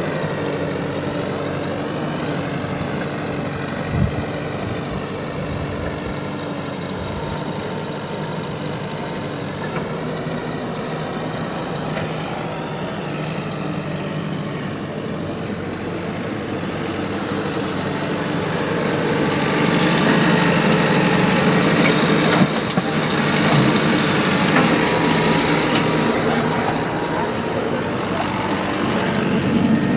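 Heavy diesel engine running steadily. It grows louder for several seconds about two-thirds of the way through, then eases back.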